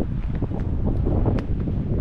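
Wind buffeting the microphone: a heavy, gusting low rumble, with a few faint sharp ticks over it.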